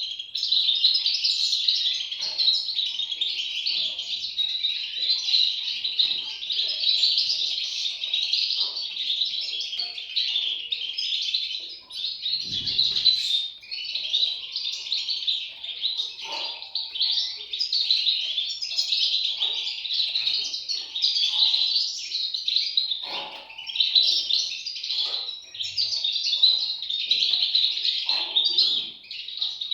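European goldfinch chicks chirping, a dense, continuous high chirping with brief breaks. A short low thump sounds about twelve seconds in.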